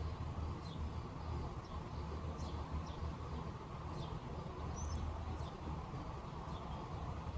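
Small birds chirping in short, scattered high notes over a steady low rumble.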